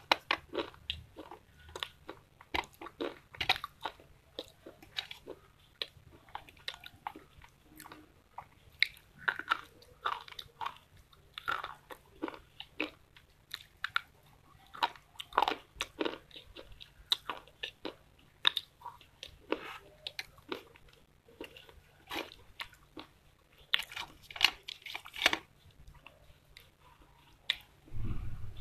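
Crunchy biting and chewing of dry slate pencils and pieces of a small unglazed clay pot: sharp, irregular crunches, a few each second.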